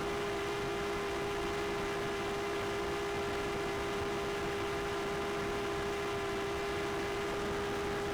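A quadcopter drone's propellers hum steadily at one unchanging pitch, with fainter overtones above it.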